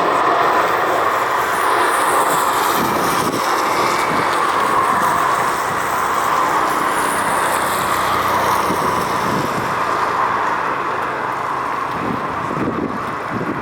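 Jet noise from a Boeing 777-300ER's two GE90 turbofans during a wet-runway landing, a steady hiss centred in the mid range that fades slowly near the end.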